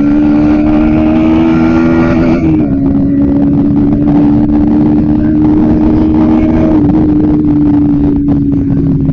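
Bajaj Pulsar NS160 motorcycle engine running steadily under way in traffic, its note climbing slightly, dropping about two and a half seconds in and easing down a little more near seven seconds.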